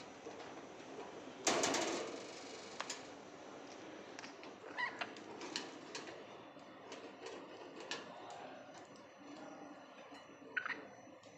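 A cockatoo playing: scattered clicks and taps, a louder rustling burst about a second and a half in, and two short, high squeaks.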